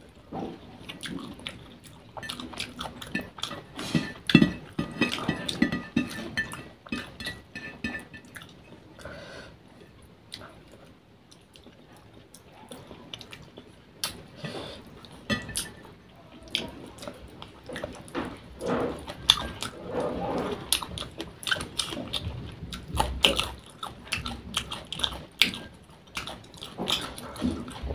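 Close-miked eating by hand: wet chewing, sucking and lip smacks, with irregular clicks throughout. Fingers wipe the leftover curry gravy off the plate.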